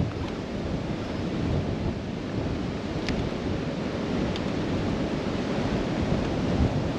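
Blizzard wind gusting hard, rumbling on the microphone, with two faint ticks about three and four and a half seconds in.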